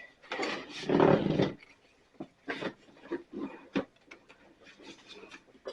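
Handling noise as a Stihl BR 600 backpack blower is tipped onto its side: a rough, scraping sound lasting about a second, then scattered light knocks and clicks, with one sharper knock about halfway through.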